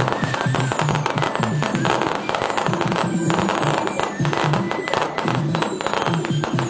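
Fireworks display going off in a dense, continuous run of cracks and pops, many reports close together, over music with held low notes.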